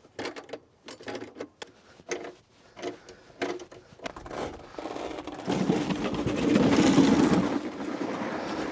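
Scattered metal clicks and knocks of parts being fitted together. Then, from about five and a half seconds in, a ratchet wrench clicks rapidly for about three seconds as a bolt is tightened to fasten the seat attachment.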